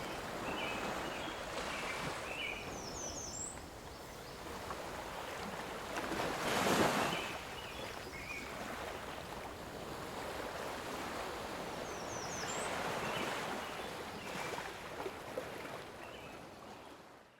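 Lake waves washing against the shore with some wind, one wave swelling loudest about six to seven seconds in. Short high bird chirps come twice, and the sound fades out at the very end.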